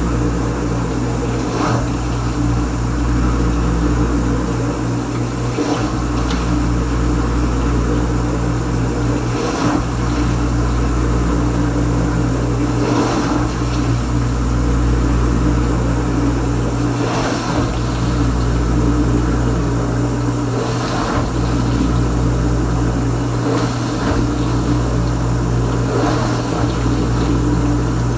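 Kenmore Ultra Wash 3 dishwasher in its wash phase: the circulation pump motor running with a steady hum while water sprays inside the tub, with a brief swish every three to four seconds.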